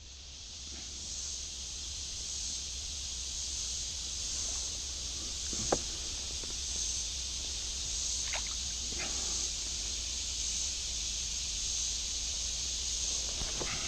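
A steady high-pitched insect drone, swelling and fading about once a second, over a low outdoor rumble. A single sharp knock comes about halfway through, and two softer ticks follow a few seconds later.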